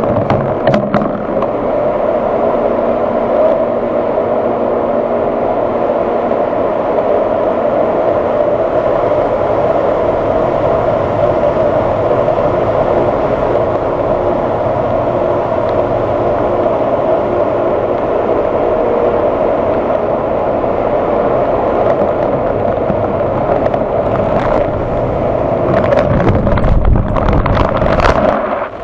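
Automatic tunnel car wash machinery working on the car: a loud, steady rush of water spray and wash equipment over a hum of motors and pumps. Near the end there is a cluster of knocks and a low rumble.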